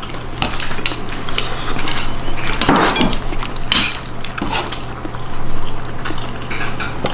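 Cutlery clinking and knocking against dishes in irregular short strokes, with a steady low hum underneath.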